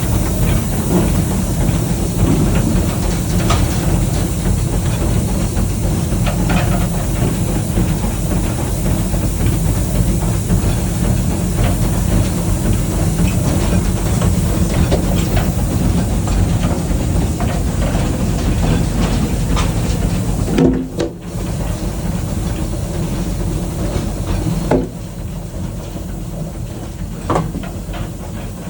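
Wood-fired steam locomotive running, heard from inside its cab: a steady rumble and hiss of steam, with rail clicks and metal knocks. The sound dips briefly about two-thirds of the way in and drops to a quieter level a little later.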